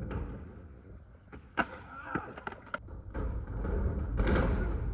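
Skateboard wheels rolling with a low rumble, a sharp clack about a second and a half in, then a few lighter clicks.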